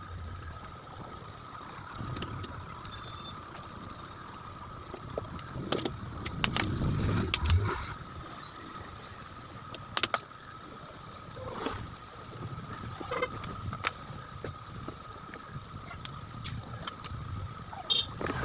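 Scattered clicks and knocks of electric fan parts and tools being handled, busiest a few seconds in, over a steady faint high-pitched hum.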